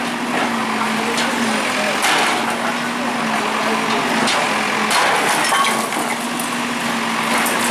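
Bulldozer demolishing a building: its engine runs steadily while wood and debris crack and splinter, with several sharp cracks.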